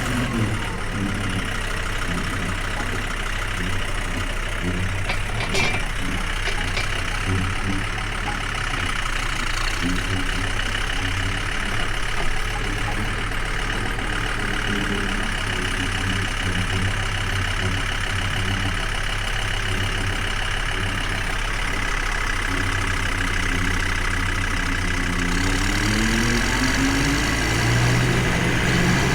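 Tractor engine running steadily, then rising in pitch a few seconds before the end as it speeds up.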